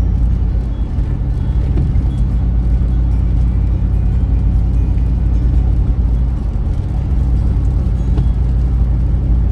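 Steady low rumble of engine and tire noise from inside a moving car's cabin.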